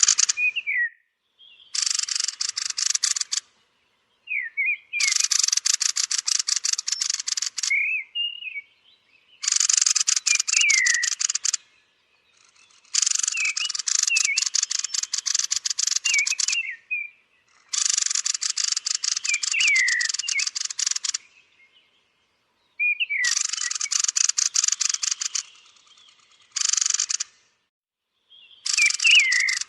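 Thrushes (Turdus) giving their roosting calls. Bursts of rapid, dense chattering ticks lasting a few seconds each repeat about eight times, with thin, high, falling whistled calls between them.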